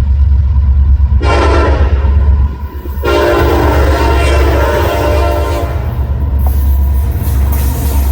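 Diesel freight locomotive passing with a heavy engine rumble, sounding its air horn twice: a short blast about a second in, then a longer one of about two and a half seconds.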